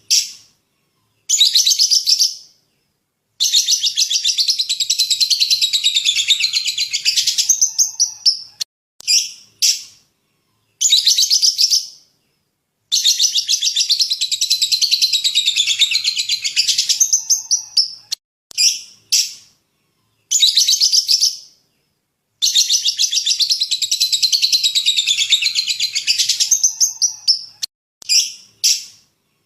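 Songbird tutor song: a few short, sharp high chips, then a long rapid high trill lasting about four to five seconds. The same phrase comes three times, about every nine and a half seconds, each time almost identical.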